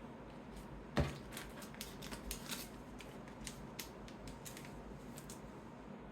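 Trading cards being handled and sorted on a table: a sharp tap about a second in, the loudest sound, then a run of light clicks and flicks as cards are picked up and set down.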